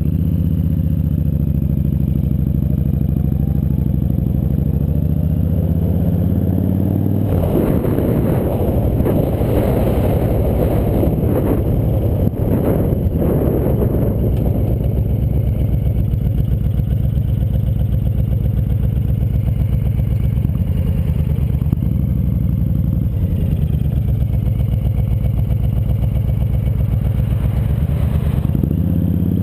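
Motorcycle engine running on the move, its pitch climbing as it speeds up about four to seven seconds in and rising and falling a few more times later. From about seven to fourteen seconds a rough noise covers it.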